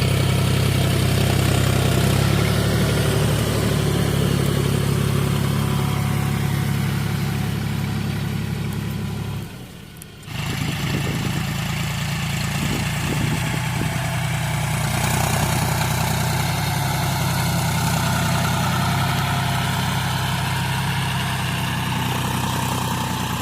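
Diesel tractor engine running steadily. The sound drops away for about a second roughly ten seconds in, then resumes.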